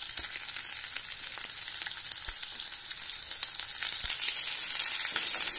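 Sliced onions, garlic, roasted chana and urad dal and cumin sizzling in hot oil in a kadhai: a steady crackling hiss full of fine pops, with a few soft low knocks.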